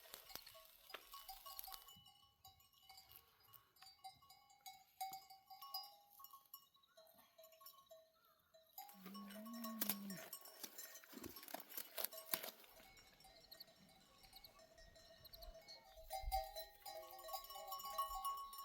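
Bells on a grazing flock of sheep clinking and ringing faintly and unevenly, with one short low animal call about nine seconds in.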